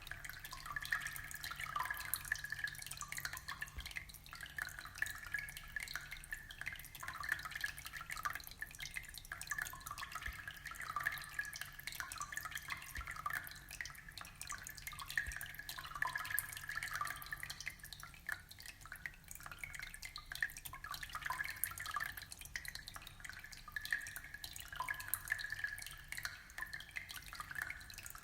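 Aquarium water trickling and bubbling, a steady run of small drips and splashes.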